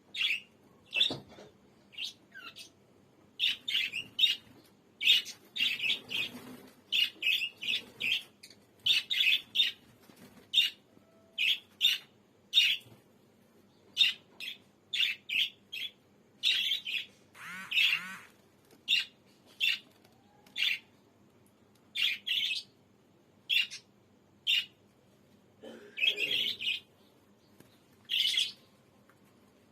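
A pet parrot calling: short, sharp, high-pitched calls repeated in irregular runs of about one or two a second, with one longer wavering call a little past halfway.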